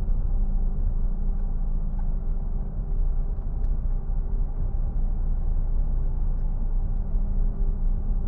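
Steady in-cabin drone of a car at motorway speed towing a caravan: a low engine hum over continuous road rumble.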